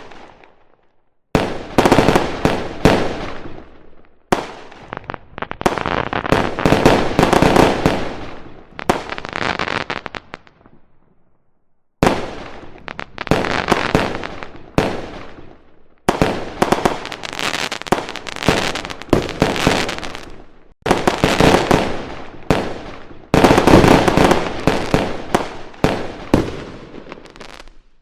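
Fireworks going off in rapid crackling volleys of many sharp pops. About six loud bursts each last a few seconds and tail off, with short pauses between them.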